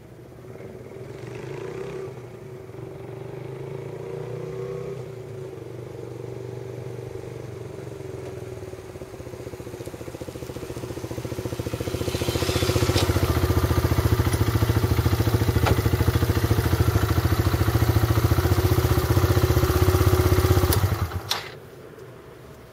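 Suzuki GZ125's single-cylinder four-stroke engine running through a modified muffler with a steady pulsing note. It grows much louder about halfway through and stops abruptly near the end.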